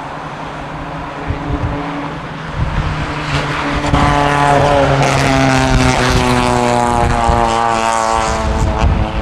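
HondaJet Elite's twin GE Honda HF120 turbofans passing close by, their whine growing loud about four seconds in and sliding slowly down in pitch as the jet goes past. Strong gusty wind buffets the microphone throughout.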